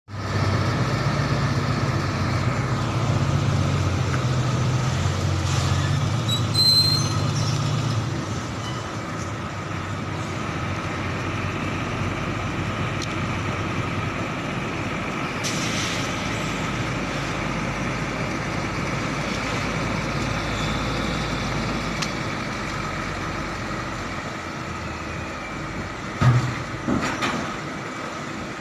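Container truck running, its engine drone strongest over the first few seconds and then easing into steady running noise. A short hiss of air, like an air brake, comes about halfway through, and a few knocks come near the end.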